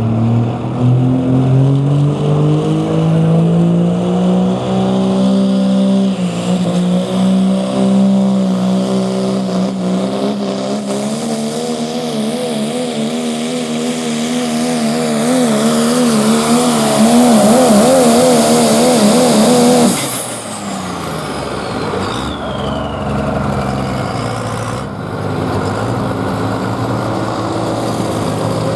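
Pro stock diesel pulling truck's engine under full throttle. Its pitch climbs, holds, then wavers, until the throttle is cut abruptly about twenty seconds in. A high whistle then falls away as the engine drops back to a lower, quieter run.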